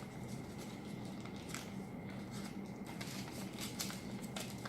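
Square origami paper being folded and creased by hand: a few short, crisp rustles over a steady low background hum.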